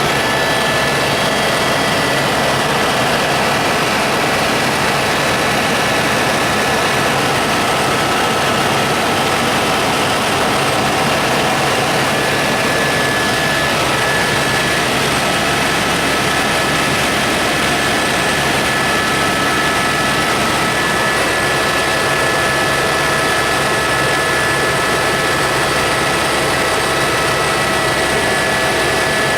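Helicopter engine and rotors running steadily: a loud, even rushing noise with several steady whining tones.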